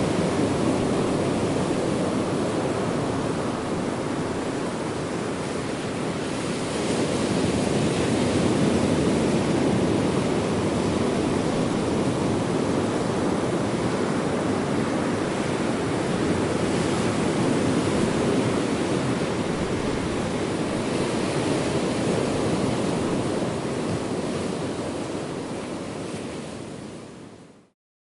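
Ocean waves surging and washing onto a shore in a continuous rush that swells and eases. It fades out quickly near the end.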